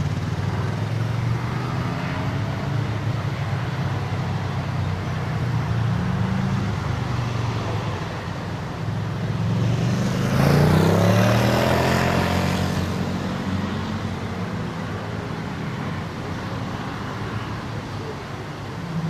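Car engines running on a mountain road. About ten seconds in, one vehicle grows louder, its pitch sliding as it passes, then fades away.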